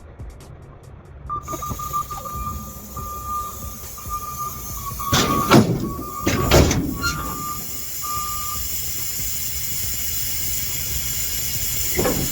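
Compressed air hissing steadily from a tractor-trailer's brake air lines during coupling, with an on-off high whistle and two loud metal clanks near the middle. The leak is harmless: the blue service line has not been hooked up yet.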